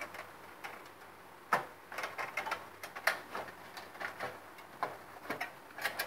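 Fluorescent light fixture parts being fitted together by hand: a sharp knock about a second and a half in, then a string of light irregular clicks and taps as the housing is pressed into place.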